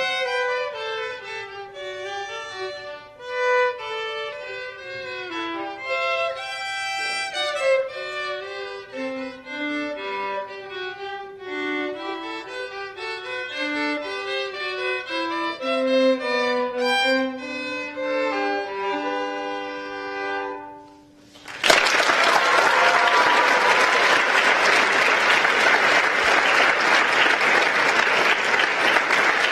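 A violin and viola duet plays a classical piece and winds down to its final note. Audience applause then starts suddenly and carries on steadily.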